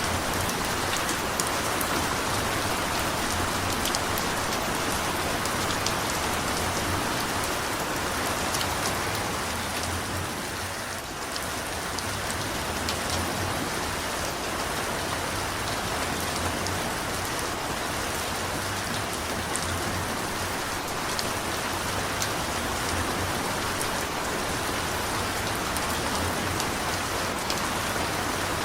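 Steady heavy rain falling, with scattered sharp drop ticks; it eases slightly for a moment about ten seconds in.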